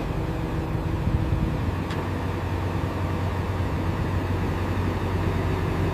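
Diesel engine of heavy construction machinery running steadily at a constant low pitch.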